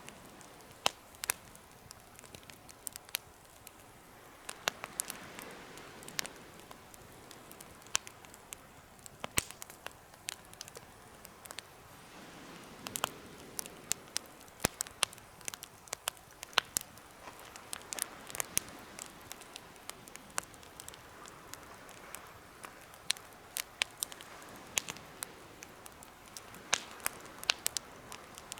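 Campfire burning in a homemade fire pit, crackling with irregular sharp pops and snaps over a soft, steady hiss of the flames.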